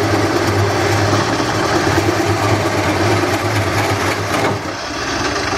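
Wood lathe running with a turning tool cutting into the spinning bowl blank: a steady motor hum under dense scraping, shaving noise, which eases slightly near the end.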